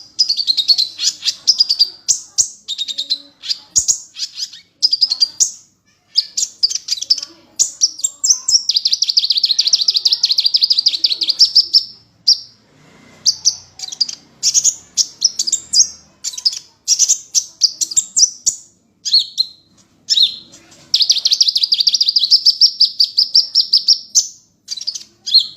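A songbird singing a varied string of rapid chirps and short whistled phrases, with a long, fast, rattling trill about nine seconds in and another about twenty-one seconds in.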